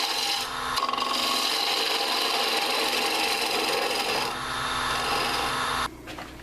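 Turning tool cutting into a spinning dry hard maple bowl blank on a wood lathe: a steady scraping hiss with a brief break about half a second in. It cuts off suddenly near the end as the tool comes off the wood.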